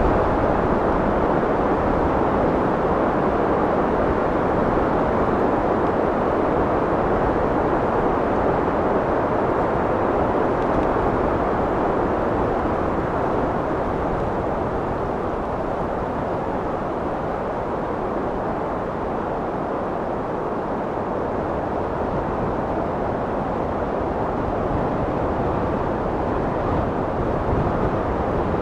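Steady wind noise, a continuous rushing that eases slightly about halfway through and swells back toward the end.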